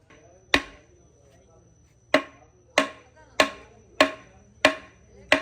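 Hammer striking metal gearbox parts, seven sharp ringing blows, the first alone and the rest in an even run of about one and a half a second.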